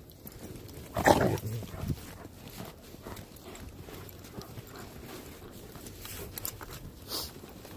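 A dog makes a loud vocal sound with several pulses about a second in, and a shorter, quieter one near the end.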